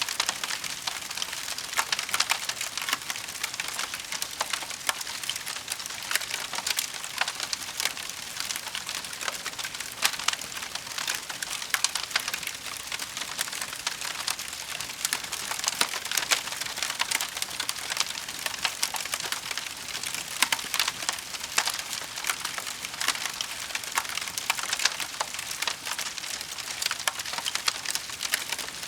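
Firewood burning in a fireplace, crackling steadily: a dense, continuous run of small pops and snaps over a soft hiss.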